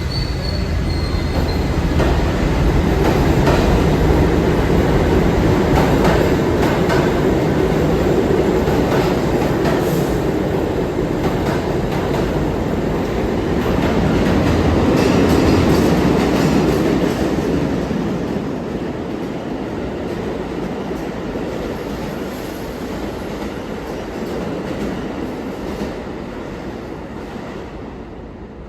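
New York City subway train running along the tracks at a station, a loud rumble with wheel clatter over the rails, then fading away over the last ten seconds as it moves off.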